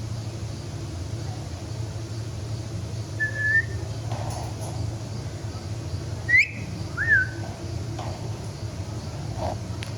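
Three short, clear whistles: a level note about three seconds in, a quick upward whistle a little after six seconds (the loudest), and a rise-and-fall note just after it, over a steady low hum.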